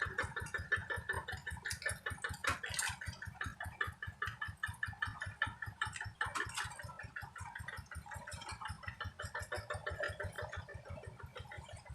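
Two-wheel paddy hand tractor's diesel engine running steadily under load while ploughing, a fast even chugging beat.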